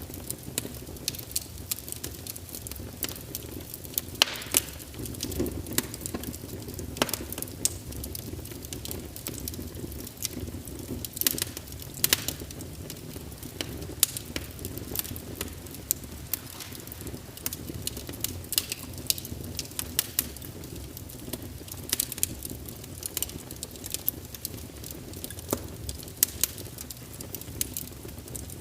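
Wood fire crackling: irregular sharp pops and snaps, several a second, over a steady low rush of burning.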